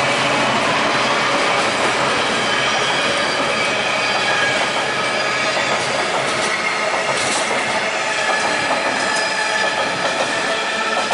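Train rolling past: steady wheel-on-rail rumble with a thin, high wheel squeal, and a few sharp clicks of wheels over rail joints around the middle.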